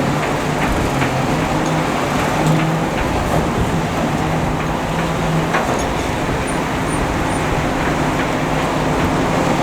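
Excavator engine running steadily, with a few sharp clicks.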